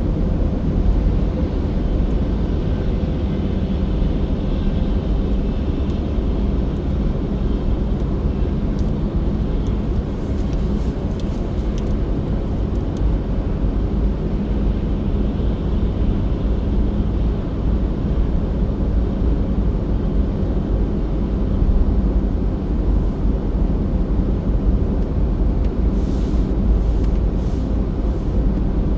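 Steady road and engine noise of a car driving, a low rumble with an even engine hum. A few faint ticks come through near the middle and again near the end.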